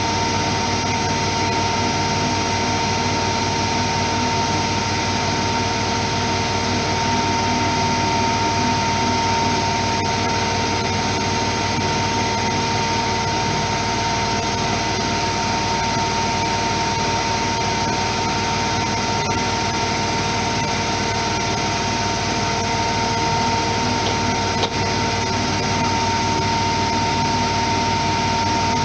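Privileg 3020 front-loading washing machine spinning at high speed: a steady loud rush of drum and motor noise with a high, even whine.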